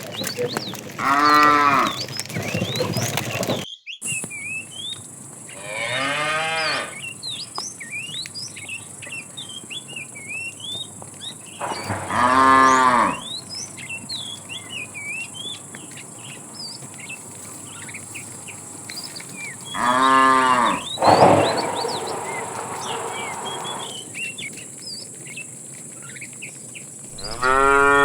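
Cattle mooing: about five long, drawn-out moos, a few seconds apart.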